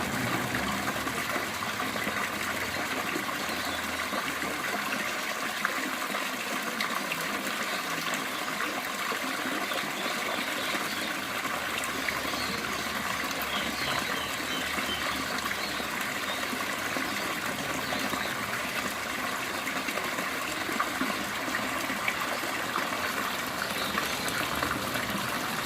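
Water running and splashing steadily into a garden fish pond, a continuous rush with no break.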